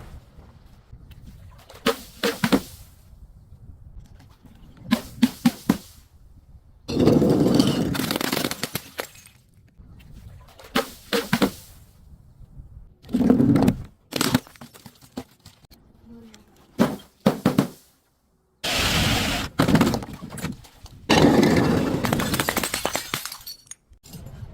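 Objects being broken and crushed one after another: short clusters of sharp cracks alternate with longer crunching stretches lasting one to two seconds.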